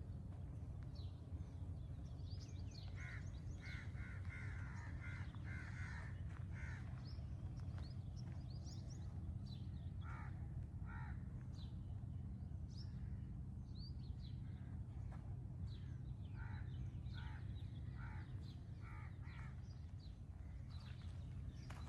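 Birds calling outdoors: runs of short repeated calls come in groups, at the start, about ten seconds in, and again near the end, with many thin higher chirps in between, over a steady low rumble.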